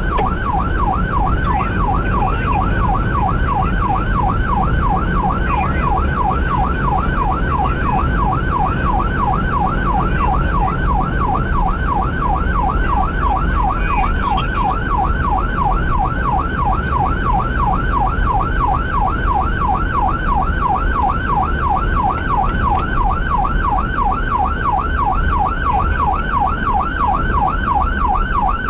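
Emergency vehicle's electronic siren on a fast yelp, its pitch sweeping up and down several times a second without a break, over a steady low rumble of engine and road noise.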